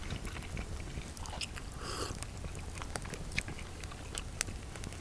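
A person chewing and biting into a grilled sausage, with scattered small sharp clicks.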